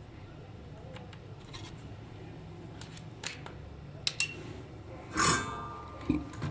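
Small metal tools and parts being handled during a toy repair: a few sharp clicks, then a louder metallic clink about five seconds in that rings briefly, over a low steady hum.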